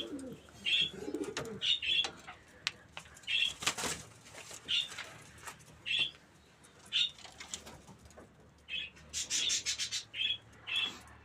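Pigeons in a coop: short high chirps about once a second, with low cooing in the first second or so. A brief clatter comes about four seconds in, and a rapid run of clicks follows near ten seconds.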